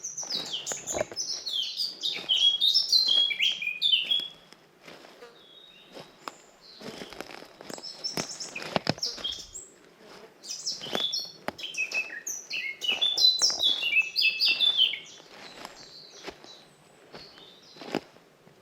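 A songbird singing two long phrases of rapid, varied high notes, the first right at the start and the second about ten seconds in, with fainter bird chirps between.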